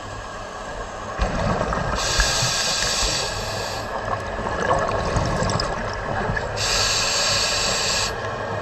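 Scuba diver breathing through a regulator underwater: two hissing inhalations about four and a half seconds apart, with the rumble of exhaled bubbles between them.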